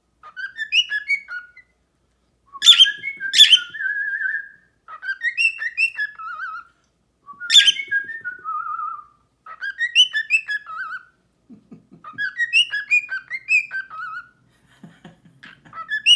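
Pet bird whistling and chirping in short warbled phrases, about six bouts with brief pauses between them, with a few sharp clicks mixed in.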